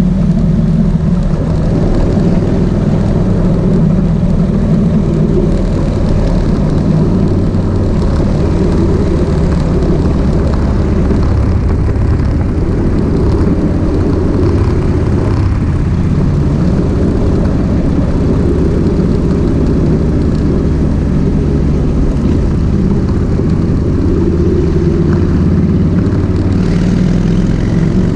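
Kawasaki VN1600 Mean Streak's V-twin engine running steadily while the motorcycle is ridden, a loud, even drone that holds at one pitch.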